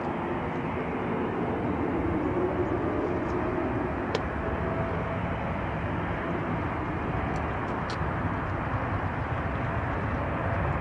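Jet engines of a Japan Airlines Boeing 787 airliner running under power: a steady rushing noise that slowly grows louder, with a faint hum that shifts upward in pitch partway through.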